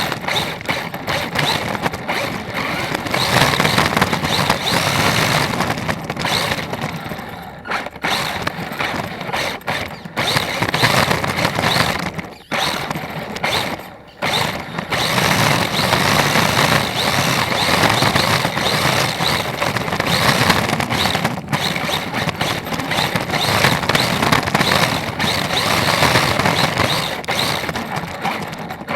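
Electric RC drift car running: motor whine and tyres scrubbing as it slides, surging and easing off with several brief drops.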